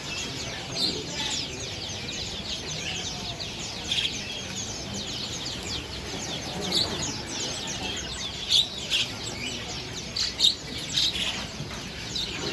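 Many caged songbirds chirping and calling together, a dense overlapping chatter of short high notes with a few louder sharp calls near the end.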